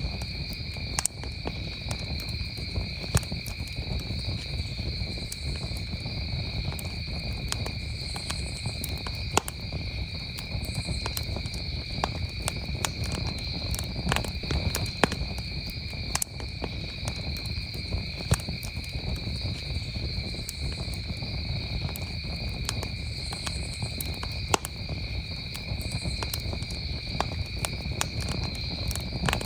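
Campfire crackling with sharp, irregular pops, over the steady high trill of crickets.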